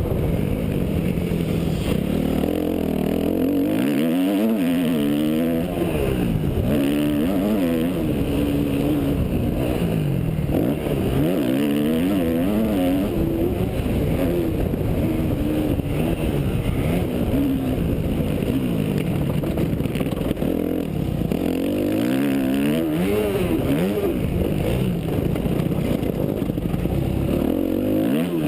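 Yamaha YZ250F motocross bike's single-cylinder four-stroke engine revving hard, its pitch rising and falling over and over as the rider opens and closes the throttle.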